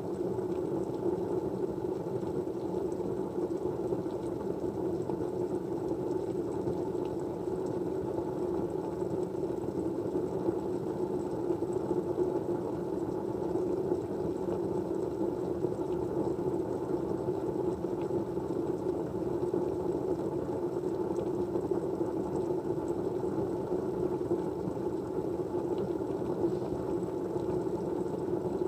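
Steady, muffled rushing white noise, low and even, with a few very faint ticks.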